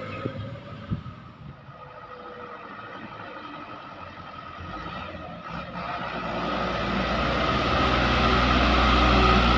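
A heavy truck's engine drones closer, growing steadily louder over the second half. There are two short knocks in the first second.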